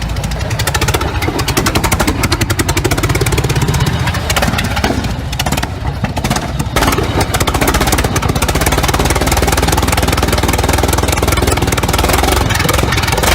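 A large engine running loudly, its firing strokes coming as a rapid, even pulse over a deep rumble.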